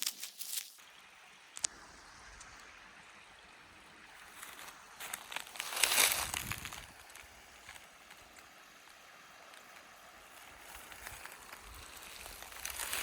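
A small creek flowing faintly, a steady soft rush of water. About halfway through, a brief louder swell of rustling noise rises over it and dies away.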